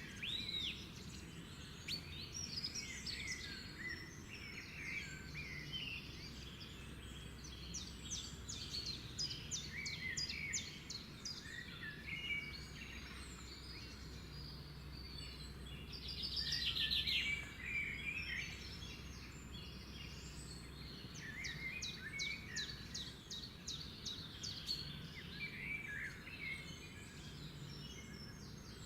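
Several birds singing and chirping in a chorus of short whistles, chirps and rapid trills over a steady low background noise. A fast trill about 16 seconds in is the loudest call.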